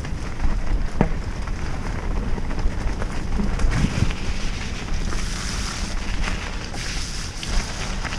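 Wind buffeting the microphone over the low rumble of a mountain bike rolling fast down a wet, muddy trail, with a few sharp knocks and rattles from the bike, and a brighter hiss from the tyres for a couple of seconds past the middle.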